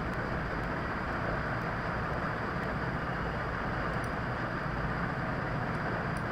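Steady background noise: an even hiss and rumble with no speech.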